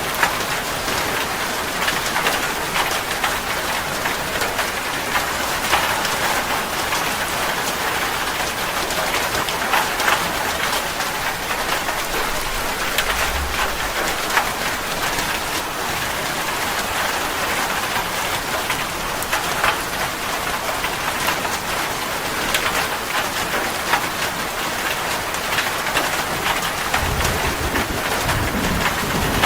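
Steady rain falling on surfaces, a dense hiss with many separate drops pattering. A low rumble of thunder builds near the end.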